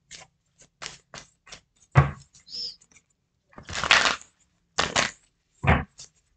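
Tarot cards being shuffled and handled: a run of quick, irregular card snaps and clicks, a longer riffling rustle in the middle, and two heavier taps.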